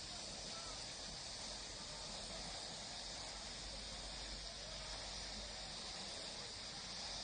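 Steady outdoor nature ambience: a continuous high-pitched insect chorus.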